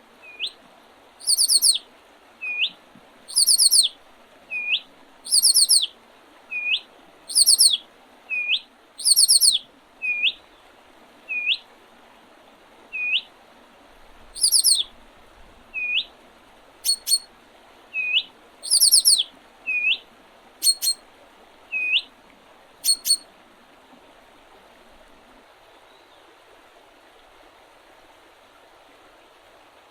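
Songbirds singing in spring. One repeats a short hooked call about every second and a half, while brief high, trilled phrases come in between. Both stop about 23 seconds in, leaving a steady faint hiss.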